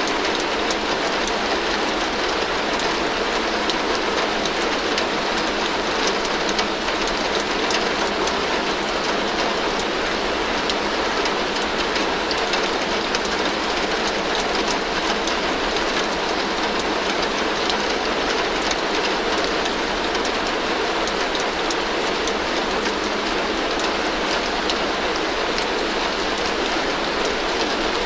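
Heavy rain falling steadily on a tin roof: a dense, even patter of drops on the metal.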